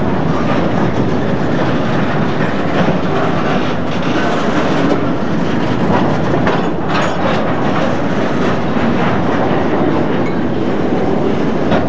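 A train of empty covered cement hopper cars rolling past. The wheels give a steady rumble with a light clickety-clack, and a few sharper clacks come about four seconds in and again near the end. It is heard through a VHS camcorder's microphone.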